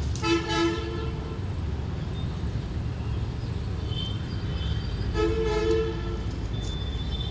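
Vehicle horn sounding twice: a steady toot of about a second near the start, then a second one about five seconds in, over a steady low background rumble.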